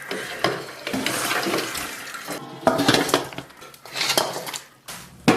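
Metal pots and utensils clattering and scraping, several separate knocks and rattles.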